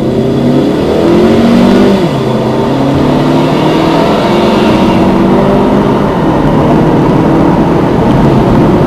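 Car engine accelerating hard, heard from inside the cabin, its pitch climbing. About two seconds in it drops at an upshift and then climbs again.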